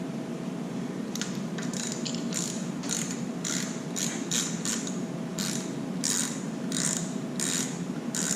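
Hand socket ratchet clicking in a run of short strokes, about two a second, starting about a second in.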